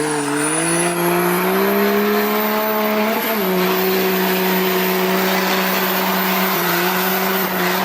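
Diesel truck engine running at raised revs, climbing in pitch over the first second and a half, dipping briefly about three seconds in, then holding a steady high rev.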